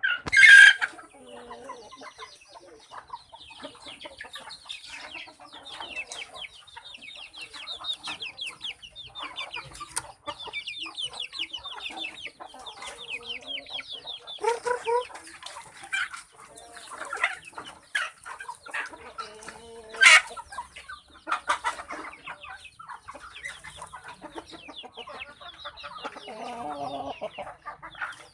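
A flock of chickens clucking and chattering continuously, with a loud squawk right at the start and another about two-thirds of the way through.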